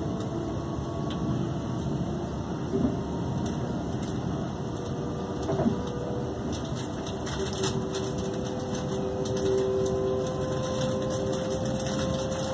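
Cabin running noise of a Class 350 Desiro electric multiple unit at speed: a steady rumble with a faint held whine that rises slightly in the second half, and a couple of short knocks.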